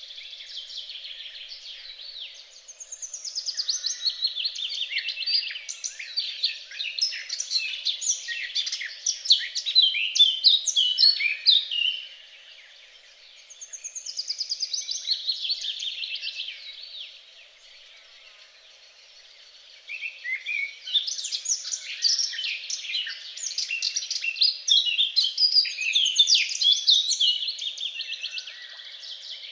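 Songbird singing long, rapid phrases of varied chirps, warbles and trills, in three bouts with short pauses between: the first about three seconds in, a short one near the middle, and a long one near the end.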